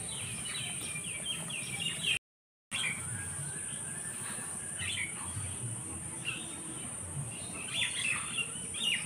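Small birds chirping and twittering on and off, over a steady high-pitched hiss. The sound drops out completely for about half a second a little over two seconds in.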